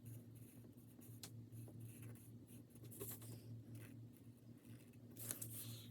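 Faint marker strokes on paper, with a few light scratches and taps, over a low steady hum.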